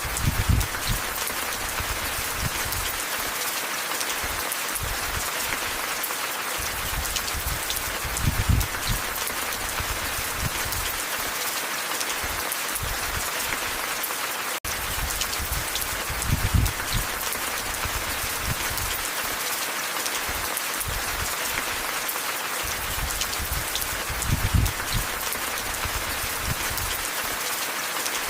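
Steady rain pattering on surfaces, with a low rumbling swell about every eight seconds and a momentary dropout about halfway through.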